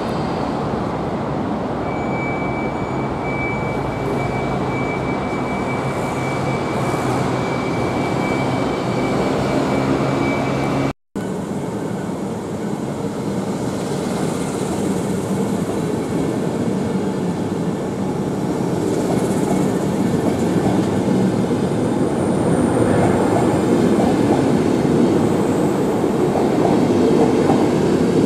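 Rail vehicle running on track, with a steady high whine in the first part. After a break about eleven seconds in, another passage of a train running, growing louder toward the end.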